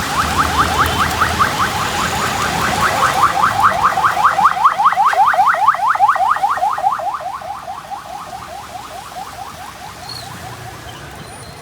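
Car alarm sounding a rapid repeating chirp, about six a second, loud for some seven seconds and then fading away.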